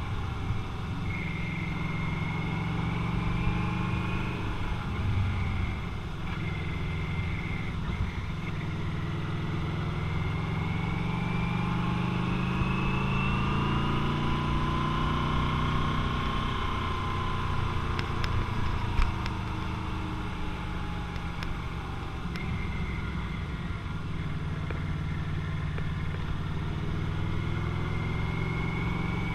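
Motorcycle engine running while riding, its pitch rising and falling with the throttle, over steady wind noise. A few light clicks come about two-thirds of the way through.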